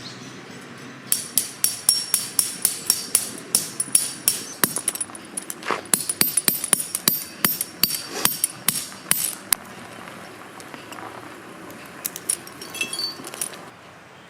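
Hammer driving a metal tent peg into the ground: quick, steady blows, about three or four a second, each with a bright metallic ring. The blows stop for a couple of seconds, then a few more follow near the end.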